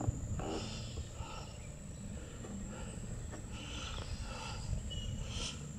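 Wild animals in a swamp calling over and over in short, repeated calls, with a steady high insect drone and a low rumble underneath.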